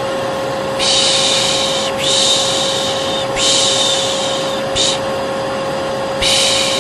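Hair dryer running with a steady hum, over which a person makes long 'shh' shushing sounds, about five in a row at an uneven pace: white noise for soothing a colicky baby.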